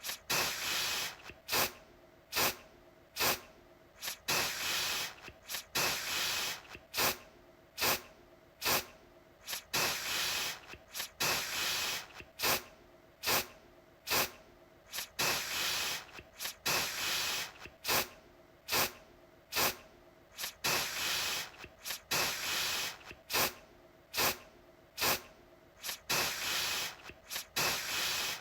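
Aerosol deodorant can spraying in repeated bursts: quick short puffs mixed with longer sprays of about half a second, one after another, one or two each second.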